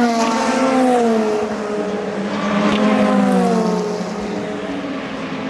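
Race cars passing at speed on track, their engine note falling in pitch as each goes by: one pass at the start and another about halfway through, then the sound fades.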